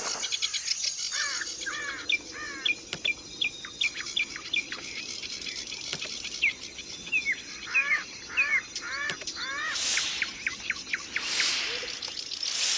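Yellow-vented bulbul (trucukan) singing: lively phrases of quick, short, bubbly notes repeated one after another.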